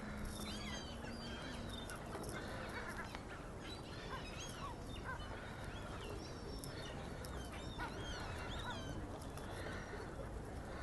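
A flock of water birds calling at a lake: many short calls rising and falling in pitch and overlapping one another, with honking, over a steady background rumble.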